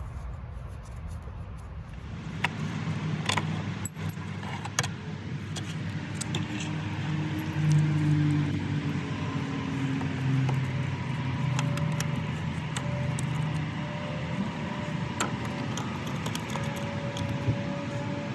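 Metal tools and parts clinking and clicking now and then during work on a motorcycle, over a low steady hum that starts about two seconds in.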